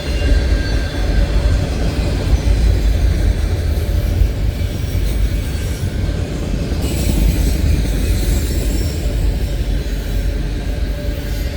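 Union Pacific freight train rolling by, a steady heavy rumble of wheels on rail with a faint thin squeal from the wheels; a hiss joins in about seven seconds in.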